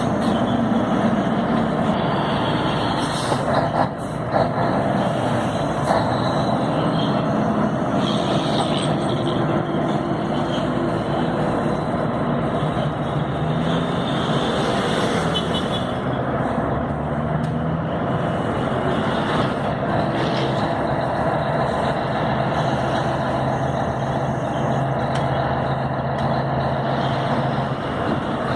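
Scania 112 truck's diesel engine running steadily under way, over continuous road noise, with a few short knocks about 3 to 6 seconds in.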